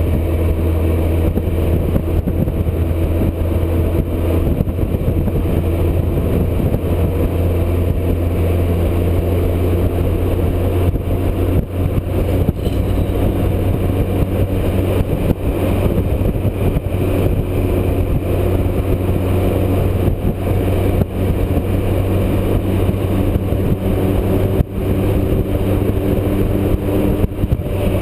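Motorcycle engine running steadily at highway cruising speed, a constant low drone with wind rushing past the rider.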